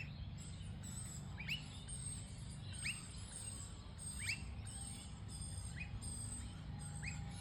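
Blue-faced honeyeater calling: a short, sharp whistled note that sweeps in pitch, repeated about every second and a half.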